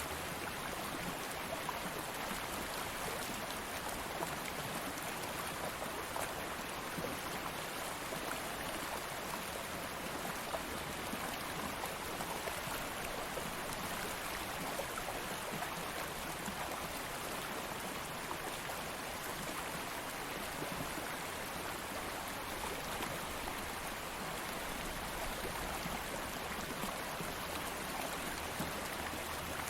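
Stream water flowing steadily, a continuous even rush with small splashes and gurgles.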